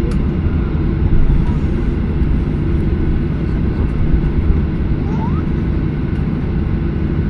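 Steady low rumble of a Boeing 737-800's cabin on the ground, the engines and airframe noise heard from inside.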